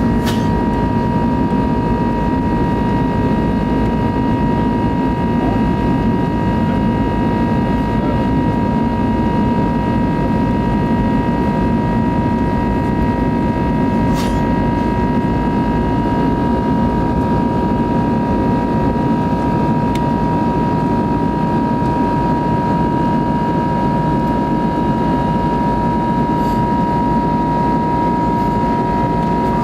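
Airbus A320neo cabin noise in flight: a steady rumble of engine and airflow with a constant high whine running over it. A faint click is heard a couple of times.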